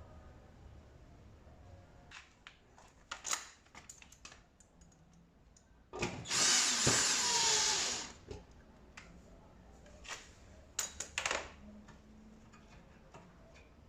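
Power drill running for about two seconds, with scattered clicks and knocks of parts being handled before and after it.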